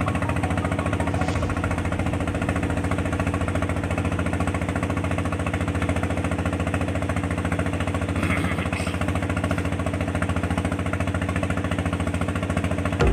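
An engine running steadily at constant speed, with a fast, even knocking pulse and an unchanging low pitch.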